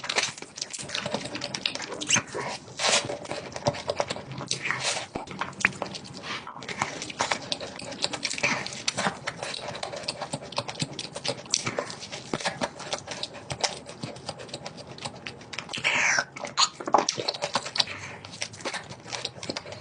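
A dog chewing and crunching food: a dense, irregular run of crunches and wet clicks with no let-up.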